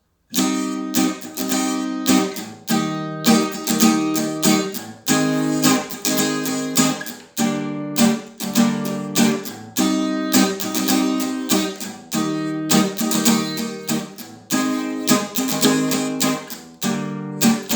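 Acoustic guitar strumming the song's intro progression, C minor, E-flat major, G-sharp major, G minor, at a moderate tempo. Each chord rings for a few strokes before the next, and the four-chord cycle comes round about twice.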